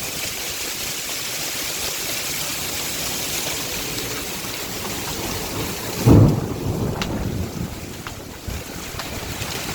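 Heavy rain and hail pouring down in a steady hiss, with one sudden loud low crack of thunder about six seconds in that rumbles away within a second or so.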